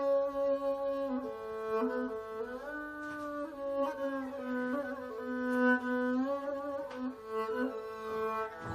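Rebab, a fretless three-stringed bowed instrument with a skin-covered coconut-shell body and horsehair strings and bow, playing a slow melody of long held notes joined by sliding glides in pitch.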